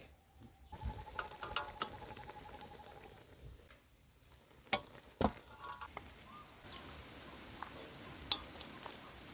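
Food sizzling and crackling as it fries in a pan, with a couple of sharp knocks of a utensil about halfway through. The sizzle grows steadier and a little louder near the end.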